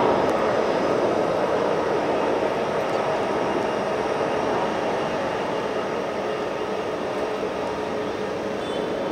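Jet engine noise of a departing Boeing 787-8 Dreamliner: a steady roar with a faint hum running through it, slowly fading.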